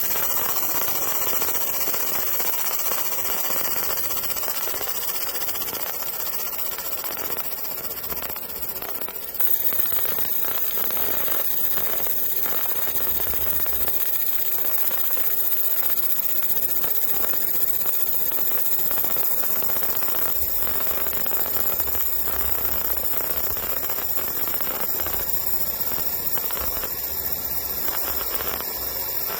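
Fiber laser marking machine running on a steel saw blade: a steady high hiss and buzz with faint crackle, which grows louder about nine seconds in.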